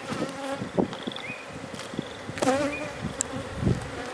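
Honey bees buzzing around an opened hive during a frame inspection, a swarm of wavering tones that rise and fall in pitch, with a few light clicks of hive parts.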